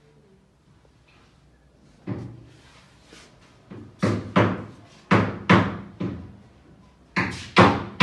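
Repeated hammer blows echoing in a bare room. They come singly and in pairs at first and speed into a steady beat of about three a second near the end.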